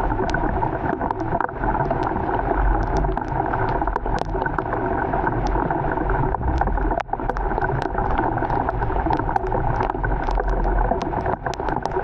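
Heavy rain falling steadily, a dense hiss with a low rumble and many sharp ticks of individual drops striking nearby surfaces.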